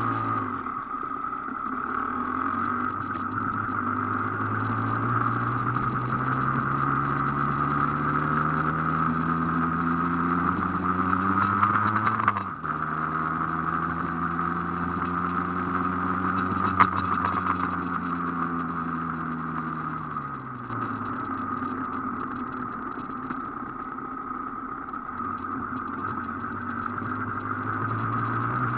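Aprilia AF1's two-stroke single-cylinder engine heard from on board while riding, pulling up through the revs for about twelve seconds, then dropping suddenly in pitch as it shifts up. It holds and eases off, falls away at about twenty seconds as the throttle closes, and picks up again near the end.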